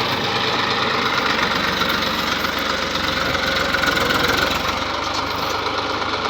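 Tractor's diesel engine running steadily with its fast, even firing beat.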